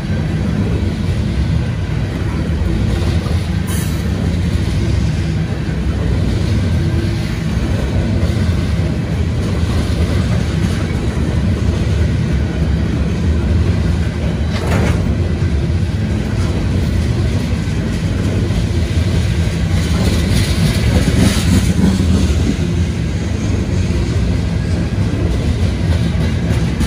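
Long string of open-top steel coal hopper cars rolling past, a steady rumble and clatter of steel wheels on rail, with a couple of brief sharper clanks.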